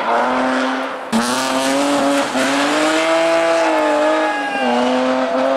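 BMW E36 3 Series rally car's engine revving hard through a tight bend, its note rising and falling as the throttle comes off and back on. There is an abrupt change about a second in.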